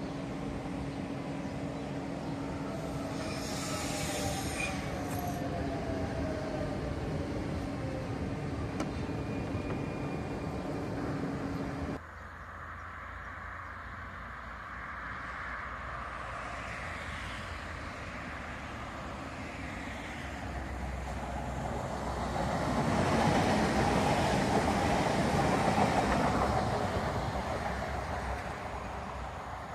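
Trenitalia Minuetto regional train running in beside the platform: a steady hum with a steady tone and a brief high squeal a few seconds in. After a sudden cut, train running noise swells over several seconds as a Minuetto approaches along the line, loudest near the end.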